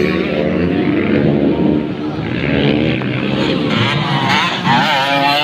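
Motocross dirt bikes racing on a grass track, their engines revving up and down in pitch, with one bike revving higher about four seconds in.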